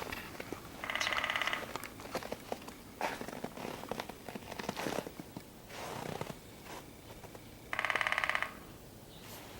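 An unidentified buzzing rattle, heard twice, each lasting just under a second, which the recorder suspects may be a woodpecker.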